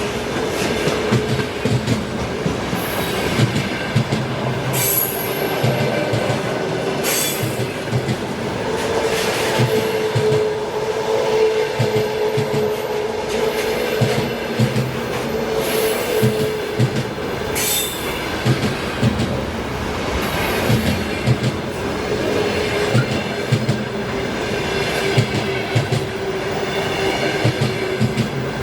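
A loaded freight train's wagons rolling past, the wheels knocking steadily over rail joints, with a sustained squeal and short high screeches from the wheels on the rails.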